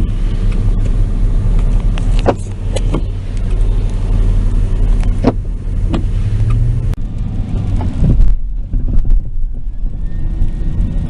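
Car interior while driving: steady low road and engine rumble with a few sharp clicks in the first half. Near the end a faint high whine comes in, rising and then holding: a whining noise the occupants can't place.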